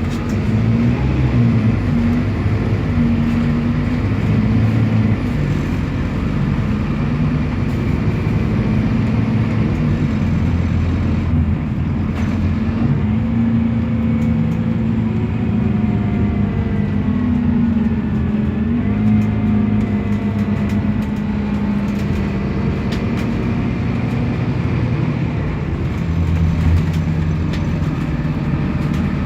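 Scania DC9 diesel engine of a city bus running under way, its pitch rising and falling as the speed changes, with faint whining tones above it for a while in the middle.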